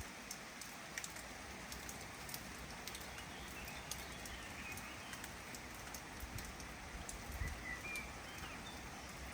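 Steady rain falling, with scattered drops tapping close by, and faint bird chirps about three seconds in and again near the end.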